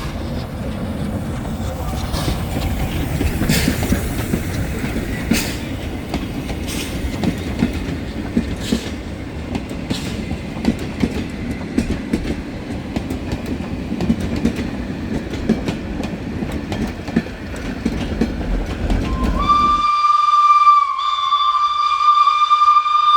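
A heritage train passing close, its wheels rumbling and clicking over the rail joints. The rumble cuts off suddenly and a single-pitched train whistle blows for about three seconds, dipping briefly about a second into the blast.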